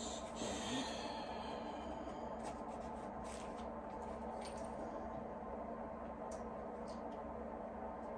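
Faint scattered clicks and a short rustle from small hand work, over a steady low hum.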